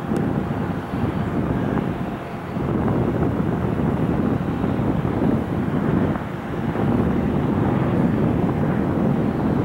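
Steel wheels of freight-train autorack cars rolling on the rails as the train moves away, a steady rolling rumble that swells and dips slightly.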